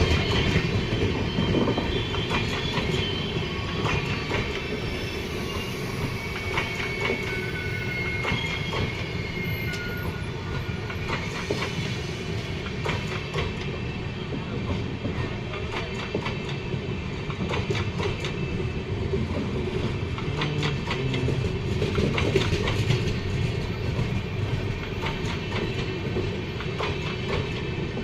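Passenger train coaches rolling past on the track. The wheels clatter over rail joints, with a few brief, faint high wheel squeals in the first third.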